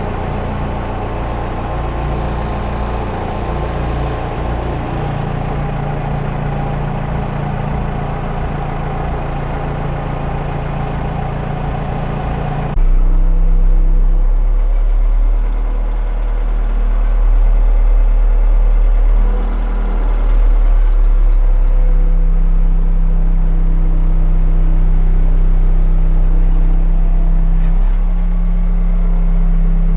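Diesel engine of a Case 580 Super L backhoe running steadily while it handles a heavy log. About 13 s in the sound jumps louder and deeper, with the engine note dipping briefly twice after that.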